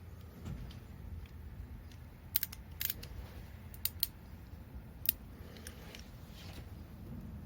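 Several sharp metallic clicks and clinks of hand tools working on engine parts, a few scattered over a few seconds, over a low steady hum.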